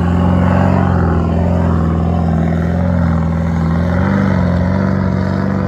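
A 4WD's engine running under steady load while driving, its pitch wavering slightly up and down.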